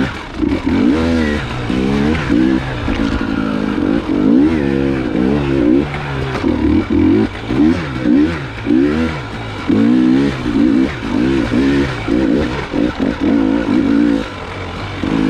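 Dirt bike engine revving up and falling back over and over as the throttle is worked on and off, with brief dips to a lower note between bursts.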